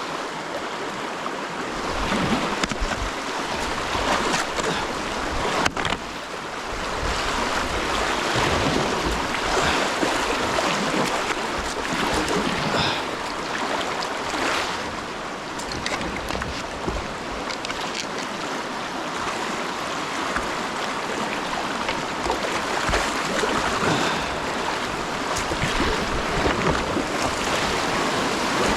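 Whitewater rushing around a kayak running a river rapid, with wind buffeting the microphone and a single sharp knock about six seconds in.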